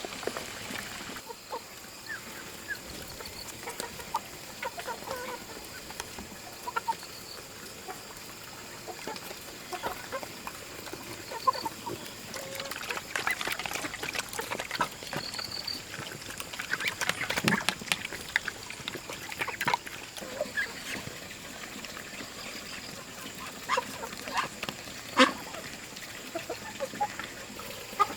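Farmyard poultry calling on and off in short calls, with scattered clicks and knocks; one sharp knock near the end is the loudest sound.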